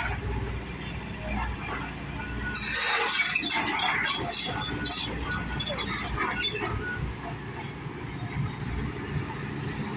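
A house being demolished: a burst of cracking and crashing debris with breaking glass, starting about two and a half seconds in and dying away after about seven seconds, over a steady low rumble.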